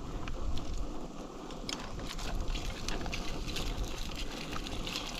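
Hot oil sizzling in a pan on a camp stove, with scattered crackles and pops over a steady low rumble.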